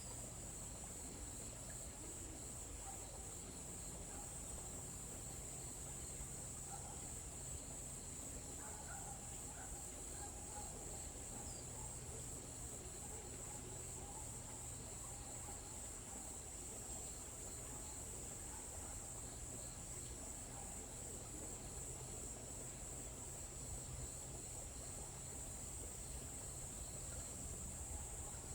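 Steady high-pitched trilling of crickets or similar insects in a forest, with a low steady rumble beneath and a few faint bird chirps in the first half.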